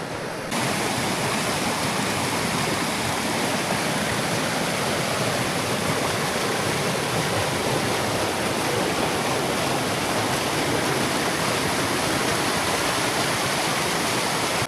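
Water of a small creek waterfall rushing steadily, beginning suddenly about half a second in.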